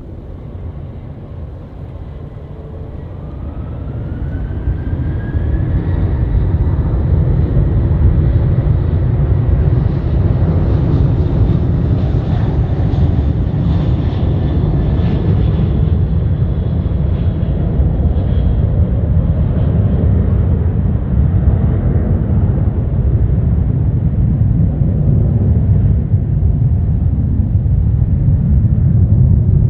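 Jet airliner engines at close range: a deep rumble that builds over the first few seconds with a rising whine, then holds loud and steady.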